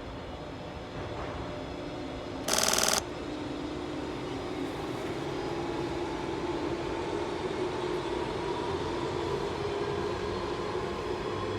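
JR 185 series electric train running, a steady hum and rumble from its motors and wheels that grows louder toward the end. A short, loud horn blast sounds about two and a half seconds in.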